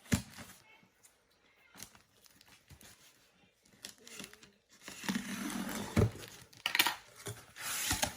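A cardboard box being opened by hand: packing tape tearing and cardboard and paper crinkling, with a sharp knock at the start and louder rips in the second half.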